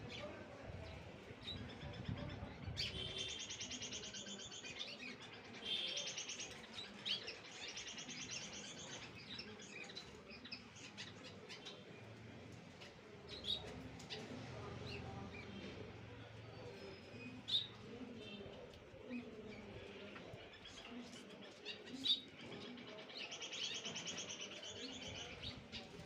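Cage birds chirping in several spells of rapid trilling chatter, with a few sharp clicks in between.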